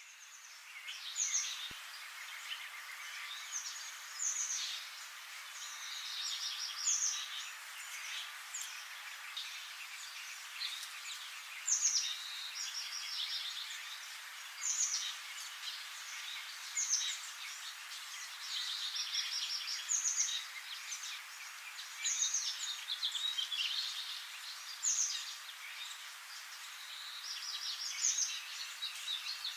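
Forest songbirds singing. One bird repeats a short, high, falling trilled phrase about every two seconds over a busy background of other birds' calls.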